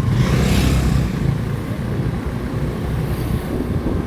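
Motorcycle running steadily on the move, with a low rumble of engine and wind. A brief rush of noise passes about half a second in.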